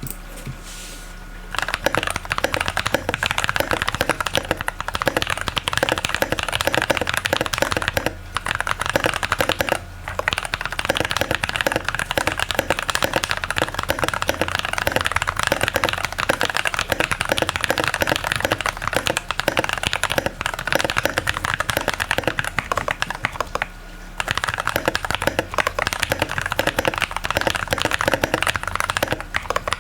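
Iqunix OG80 mechanical keyboard with an aluminium plate, lubed NovelKeys Cream-recolour linear switches, tape and PE-foam mods and lubed Costar stabilisers, being typed on quickly and steadily. The typing starts about a second and a half in and pauses briefly three times.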